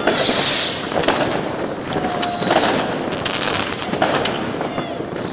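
New Year's fireworks and firecrackers going off all around: a dense crackle of many sharp bangs, one after another, with a loud hissing burst right at the start and a few thin falling whistles.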